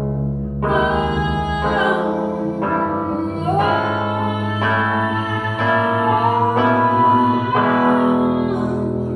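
Live band playing a slow, gospel-tinged song, with keyboard chords and wordless female singing.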